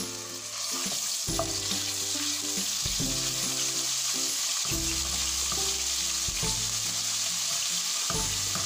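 Ginger-garlic paste sizzling steadily in hot oil in a nonstick wok as it is stirred with a wooden spoon. The sizzle swells about half a second in, once the paste spreads through the oil; this short fry is to cook off the paste's raw taste.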